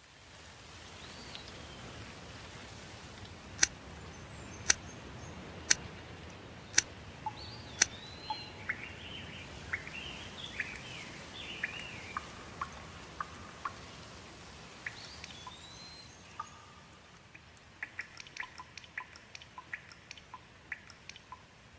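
Steady hiss of light rain with birds chirping through it. Five sharp, loud clicks come about a second apart between roughly four and eight seconds in, and a quick run of short ticks comes near the end.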